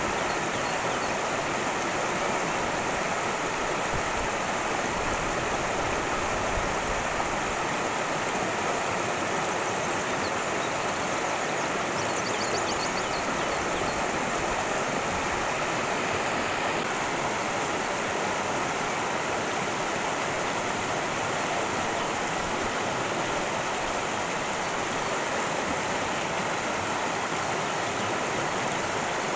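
A cascading creek, water rushing steadily over rocks in an even, unbroken wash.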